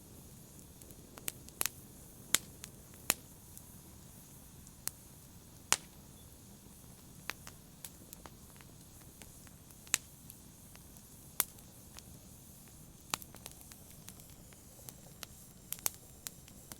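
Wood fire crackling in a fireplace: irregular sharp pops and snaps, a few every second, over a soft steady hiss of burning.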